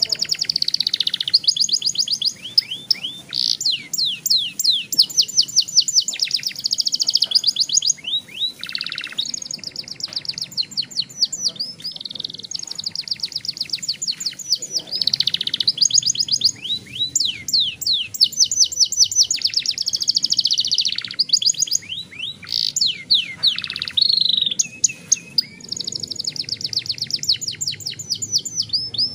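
Young domestic canary singing a long rolling song: fast runs of repeated high notes, trill after trill, with only brief breaks.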